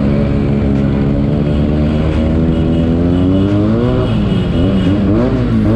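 Motorcycle engine running under way, its pitch steady at first, then rising and falling several times in the last couple of seconds as the throttle opens and closes.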